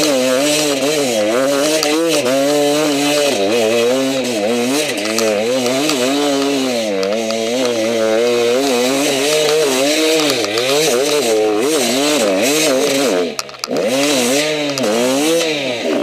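Enduro motorcycle engine revving up and down continuously under load on a steep dirt trail. Near the end the throttle briefly closes and the engine drops off, then it picks up again at once.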